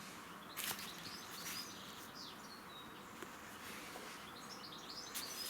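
Faint birds chirping in the background, with a few brief soft handling noises.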